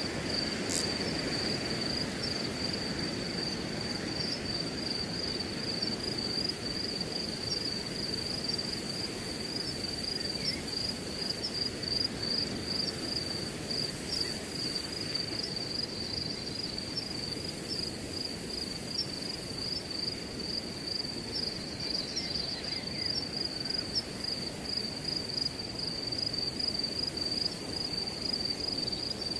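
Crickets chirping in a continuous, high, pulsing trill over a steady rush of wind through grass.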